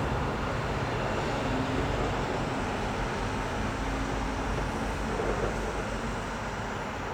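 Steady low rumble of outdoor background noise, with no distinct bangs.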